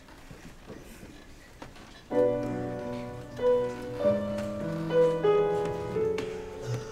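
Faint room noise for about two seconds, then a piano begins playing slow chords, each struck sharply and left to ring.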